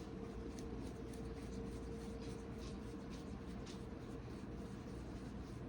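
Hands pinching off and rolling soft bread dough into balls, faint irregular rubbing and scratching on the work surface, over a steady low room hum.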